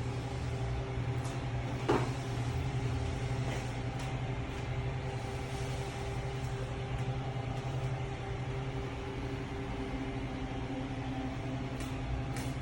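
Steady machine hum with a strong low drone and several even overtones, broken once by a sharp knock about two seconds in.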